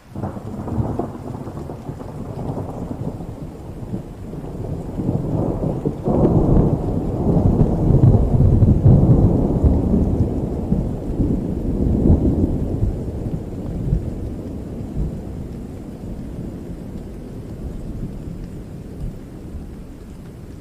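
Thunder rolling over steady rain, a low rumble that swells to its loudest about six to ten seconds in, surges again a little later, and slowly dies away toward the end.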